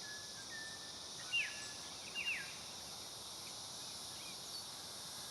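Outdoor ambience of small birds giving short, quick downward-sliding chirps, twice about a second and a half and two seconds in, over a steady high-pitched drone of insects.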